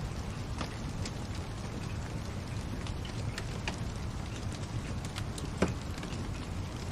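Wood fire crackling in a fireplace: a steady low rumble with scattered sharp pops, the loudest one a little past halfway.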